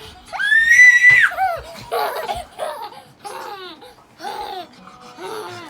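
Young child squealing loudly at a high pitch for about a second, then giggling in short bursts while playing tug-of-war with a dog.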